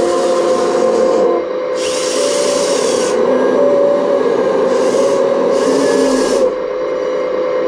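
Radio-controlled model excavator running: a steady whir from its electric motors and hydraulic pump, with several bursts of higher hiss that start and stop as functions are worked.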